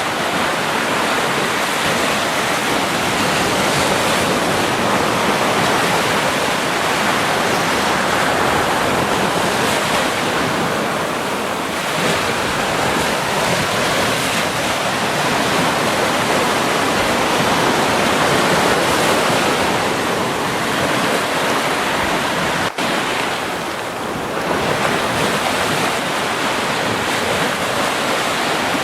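Sea surf: waves washing in continuously, a steady rushing hiss that swells and eases slowly, with a brief drop in level about two-thirds of the way through.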